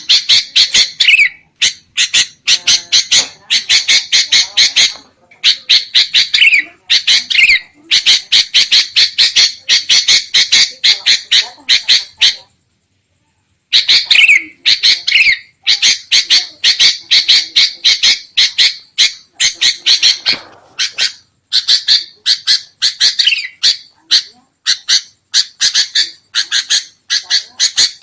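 Sooty-headed bulbuls (kutilang) giving noisy, agitated chattering calls, the kind played as a lure for wild bulbuls: fast runs of short harsh notes, about four or five a second, with a few downward-slurred notes and a pause of about a second midway.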